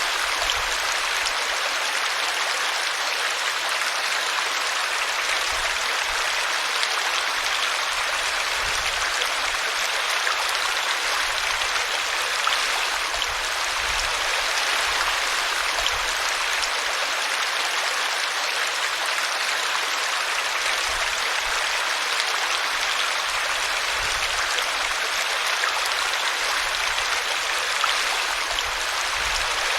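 A small brook running over a tree root: a steady rush and splash of flowing water.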